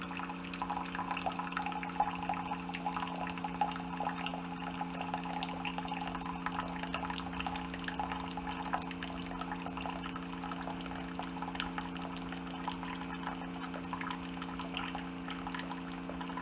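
Keurig single-serve coffee maker dispensing hot water into a cup during its first cleansing brew: a steady pump hum under water streaming and dripping into the cup.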